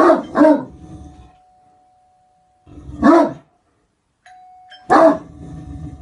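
Great Dane barking: four deep barks, two in quick succession at the start, one about three seconds in and another near the five-second mark. A faint steady high tone runs underneath for most of the time.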